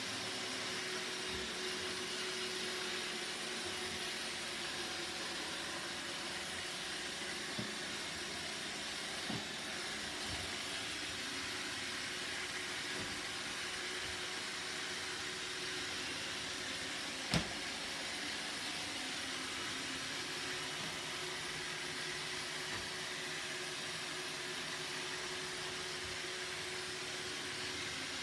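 Roomba robot vacuum running with a steady whirring hiss and a faint hum, with a few light knocks, the sharpest about two-thirds of the way through.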